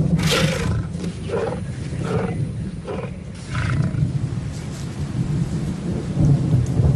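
Lion calling: a series of about five short, hoarse roars roughly a second apart, over a steady low rumble.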